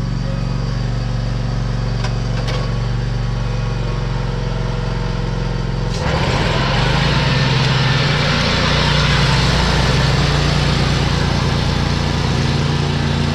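Zero-turn lawn mower engine running steadily. About six seconds in, the sound gets louder and a dense rushing noise joins the engine.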